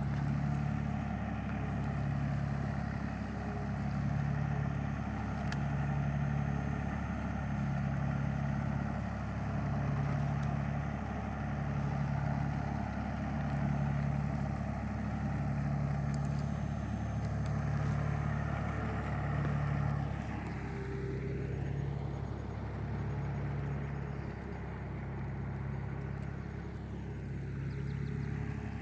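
An engine running steadily at low revs, with a slow regular throb a little slower than once a second that evens out about two-thirds of the way through.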